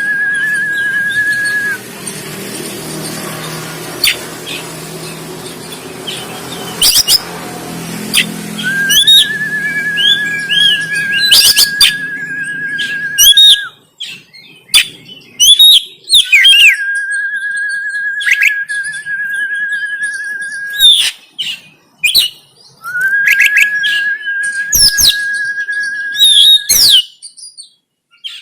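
Oriental magpie-robin singing: long, steady whistled notes held for several seconds each, four times, broken by sharp clicking chips and quick swooping notes. A low hum sits under the song for the first half.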